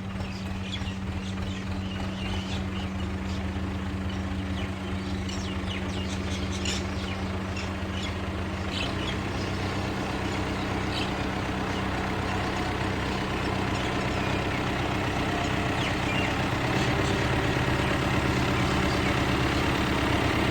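Farm machinery engine running steadily, a low even hum that slowly grows louder, with scattered light clicks and rattles.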